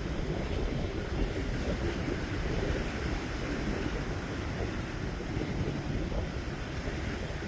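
Steady wind buffeting the microphone, with the wash of surf at the inlet underneath.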